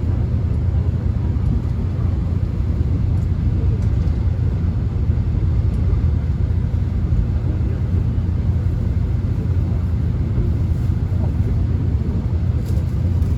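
Subway train running, heard from inside the car: a steady low rumble with a faint hiss above it.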